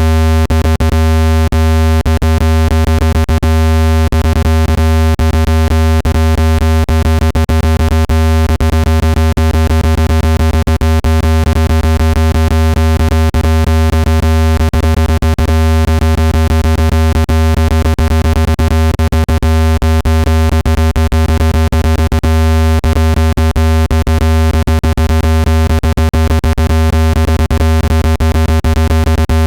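Synthetic speaker-cleaning tone: a loud, steady low-pitched electronic drone with many overtones, meant to vibrate dust out of a phone speaker, with irregular clicks crackling throughout.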